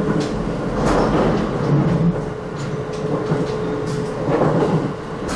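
Passenger train running along the line, heard from inside the car: a steady rumble of wheels on rail with a faint steady hum and a few clacks as the wheels pass rail joints.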